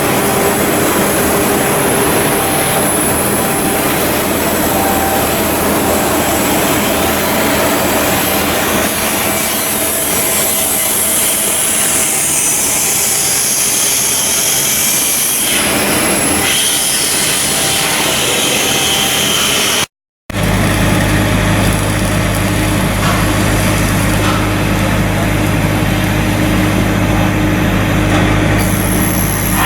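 Loud, continuous shipyard machinery and work noise, dense and even. It drops out for an instant about twenty seconds in, then gives way to a steady low hum with several fixed tones, like a running engine or heavy machine.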